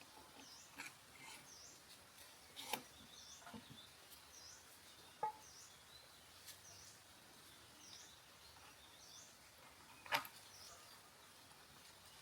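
Faint, repeated short chirps from a small bird, one every second or less, over a quiet background, with a few sharp light clicks or knocks, the loudest near the end.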